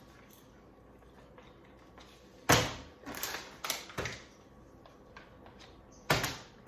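Plastic water bottle landing hard after a flip: a sharp knock about two and a half seconds in, followed by a few smaller knocks as it tumbles, then another hard landing near the end.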